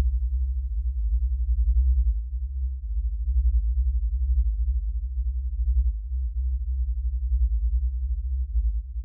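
Low, steady binaural-beat sine tones with a slow wavering pulse, and no rain left over them.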